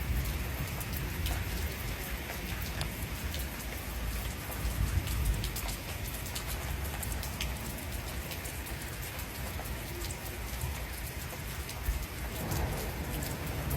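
Heavy rain falling during a thunderstorm, with drops striking close by as many sharp ticks over a steady wash of rain and a low rumble underneath. The rain grows louder near the end.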